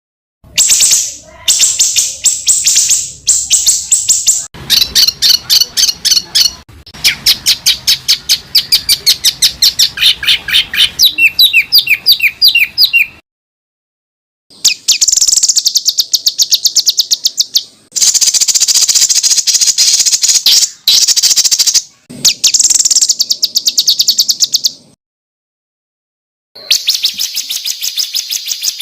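Songbird masteran (tutor song for caged competition birds): phrases of rapid, sharp repeated notes ('tembakan rapat'). The notes are high and come several per second. The phrases break off abruptly into gaps of complete silence, the longest near the middle and after about 25 seconds.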